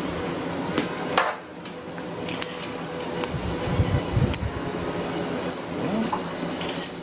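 Scattered clinks and knocks of hard, metallic objects being handled, irregular and sharp, over a faint steady hum.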